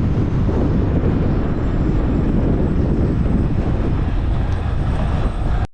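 Strong wind blasting across the microphone, a dense steady rumble, over a heavy truck running. The sound cuts out abruptly at the very end.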